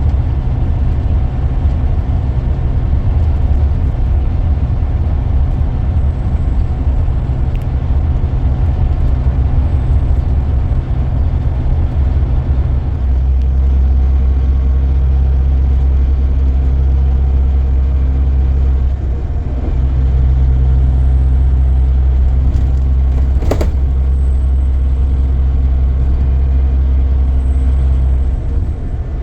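Scania K440EB coach's engine running while driving: a steady low drone with road noise, its note shifting a couple of times. A single sharp knock about three quarters of the way through.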